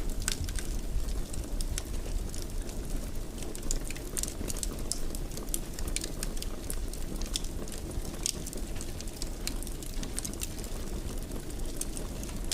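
Fire crackling in a fireplace: a steady low noise of burning with frequent, irregular small crackles and snaps.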